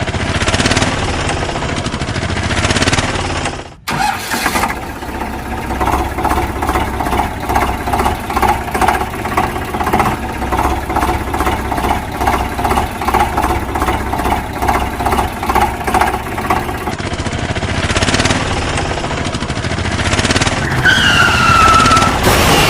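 Tractor engine running, in several spliced stretches. The middle stretch chugs steadily at about two beats a second. Near the end a short falling tone sounds.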